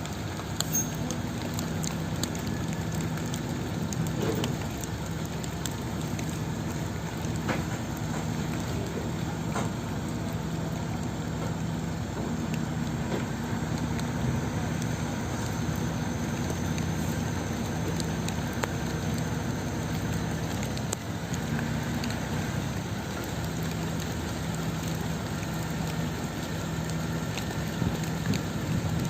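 Truck engine running steadily with a low hum, under a constant hiss and a few faint ticks.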